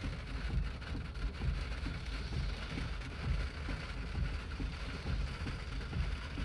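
Storm rain and wind: a steady hiss with an uneven low rumble underneath.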